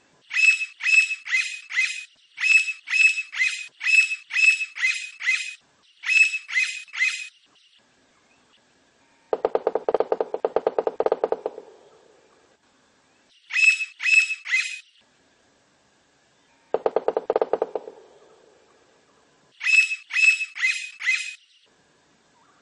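Blond-crested woodpecker calling: runs of three to five loud, sharp, high notes, repeated again and again with short pauses. Twice, about ten and seventeen seconds in, there is a lower, rapid rattling sound lasting one to two seconds.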